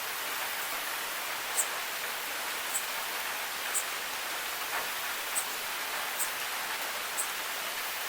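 Steady rain falling, an even hiss with sharp single drop ticks about once a second.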